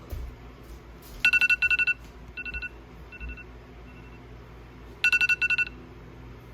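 Electronic kitchen timer beeping in rapid trains of high beeps: a loud burst, a few fainter groups, then a second loud burst. It signals that the baking time is up.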